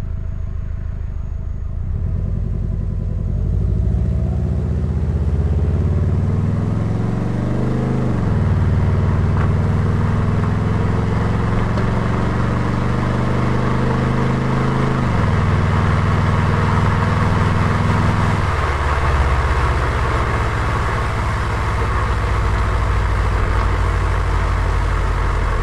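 Turbocharged Subaru flat-four engine and exhaust pulling through the gears. The engine note climbs and falls back sharply at two upshifts, about eight and fifteen seconds in, then drops again and settles into a steady cruise while road noise grows.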